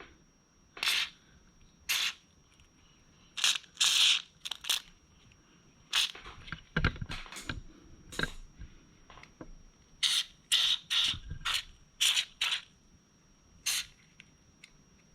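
Aerosol can of white lithium grease spraying in a string of short hisses, about fifteen quick bursts of a fraction of a second each, one a little longer about four seconds in.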